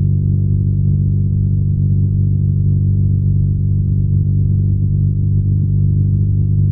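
BMW R nineT's air/oil-cooled boxer twin running steadily at a constant cruising speed, its exhaust a low, even drone with no revving.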